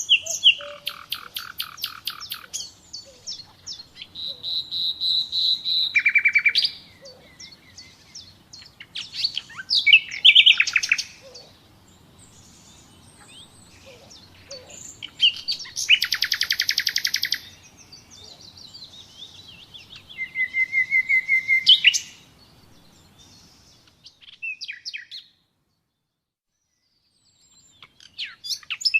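Nightingale singing: separate phrases of rapid repeated notes, a long held whistle that swells louder, and fast trills, one after another with short pauses. The song stops for a few seconds near the end, then one more phrase follows.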